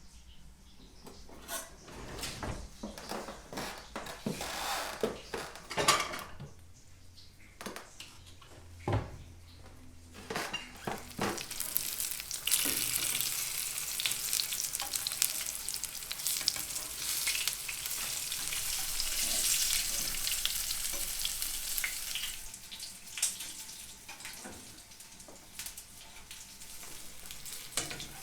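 Food sizzling as it fries in a pan. About the first third is scattered knocks and clicks of utensils and cookware, then a steady hiss of frying sets in, loudest in the middle and easing off near the end.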